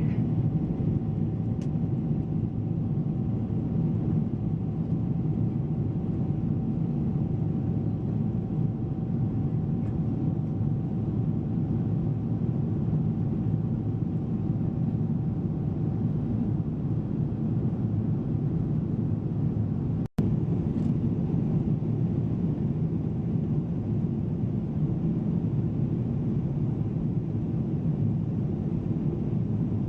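Steady low roar of a Boeing 777 airliner heard from inside the passenger cabin, with a faint steady tone over it in the first half. The sound cuts out for an instant about two-thirds of the way through.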